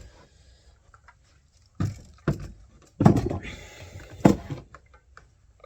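Four knocks of hard objects being handled and set down, about two, two and a half, three and four seconds in; the third is the loudest and is followed by a short rattle. No engine is running.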